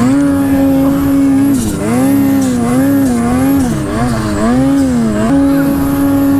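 Snowmobile engine running at high revs, its pitch dipping and rising several times as the throttle is worked, then held steady again near the end.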